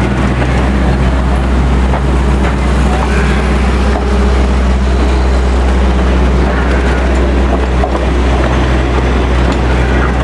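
Passenger train coaches rolling slowly past close by: a steady, loud low rumble with a constant low hum underneath.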